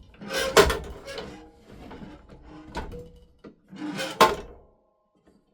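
A series of knocks and clunks with some scraping, as hard parts are handled and fitted together. The loudest knocks come about half a second in and about four seconds in.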